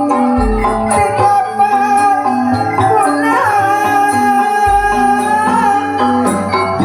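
Javanese gending played loud through a sound system: stepped metallophone notes move in a steady pattern under a long held, wavering melody line, with occasional deep low thumps.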